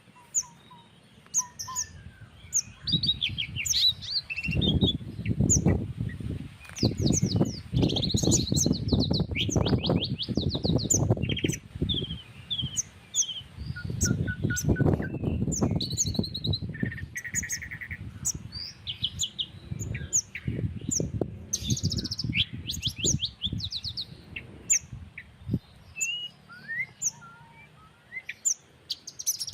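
Several birds calling over one another: repeated short high chips and rapid trills. Breeze rumbles on the microphone in gusts, loudest in the first half and again about two-thirds of the way through.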